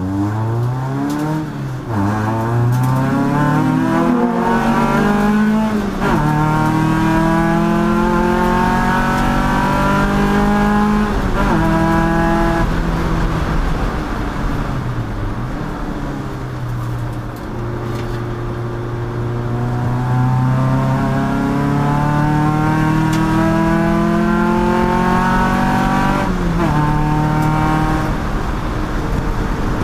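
Endurance race car's engine accelerating hard through the gears. The pitch climbs and drops back at each upshift, falls away for a few seconds mid-way as the throttle comes off, then climbs through the gears again.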